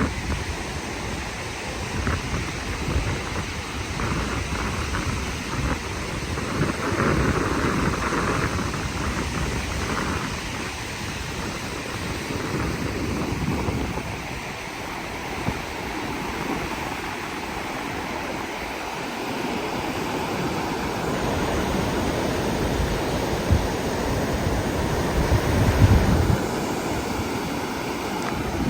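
Wind buffeting the microphone over the wash of the sea, rising and falling in gusts with deep low rumbles.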